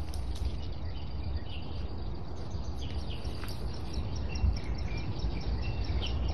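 Short high bird chirps, scattered and repeated, over a steady low outdoor rumble.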